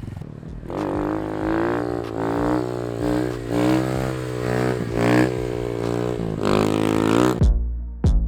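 Motorcycle engine running with its pitch rising and falling under small throttle blips. It cuts off near the end and electronic music with a drum beat begins.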